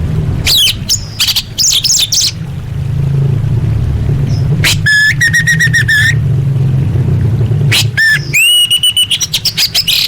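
Female orange-headed thrush calling: quick high chirps in the first two seconds, then runs of rapid repeated notes about five seconds in and again near the end. A steady low hum runs underneath.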